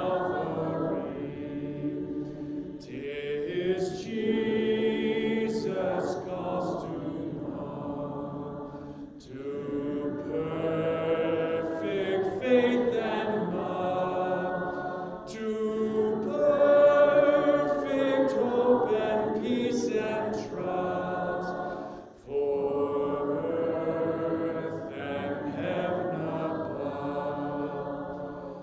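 A congregation singing a hymn a cappella in several voice parts, in long sung phrases with short breaks between them.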